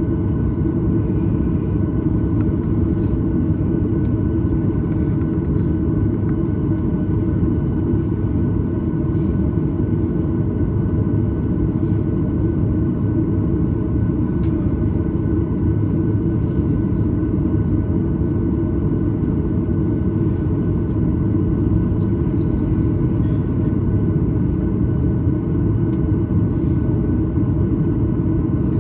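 Steady low rumble inside the cabin of a Boeing 737-900ER taxiing, its CFM56 engines at low power, with a few faint steady whine tones above the rumble.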